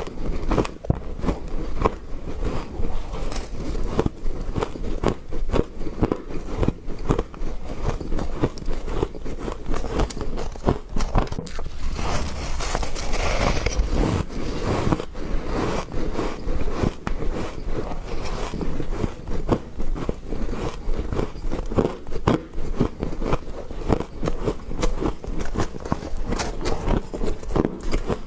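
Someone biting and chewing freezer frost: a dense, continuous run of crisp crackling crunches, with a louder, hissier stretch about halfway through.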